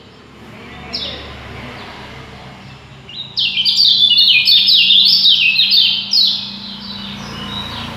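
Songbird singing rapid runs of falling chirps: a short phrase about a second in, then a long, dense burst from about three to six seconds in.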